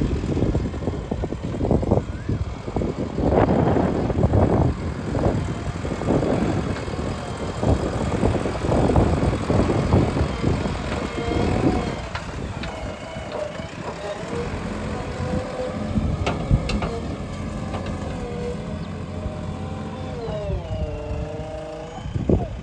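JCB backhoe loader's diesel engine working, with loud irregular knocks and scraping over it for the first half or so. Then the engine runs on more steadily, its pitch dipping and rising again near the end.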